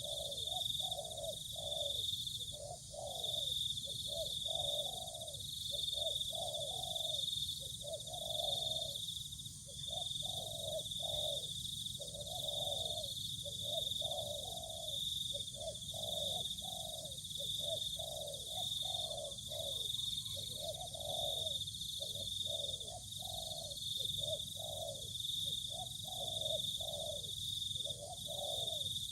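Doves cooing over and over in short repeated phrases, typical of a lure call for wild doves. A steady high-pitched drone runs beneath.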